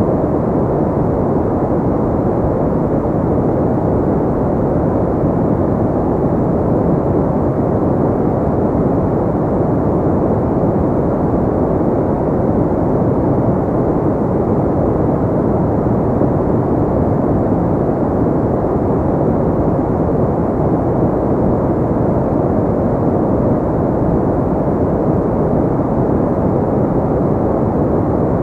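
Steady relaxation noise, an even, deep rushing hiss with little high treble that does not change.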